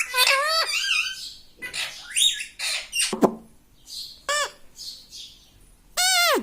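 Pet parrot calling: a run of short squawks and whistled chirps, several gliding up and down in pitch, with a louder arched call near the end.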